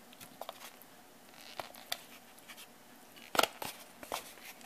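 Oxtail pieces being put into a cooking pot: a few scattered knocks and taps, the loudest about three and a half seconds in.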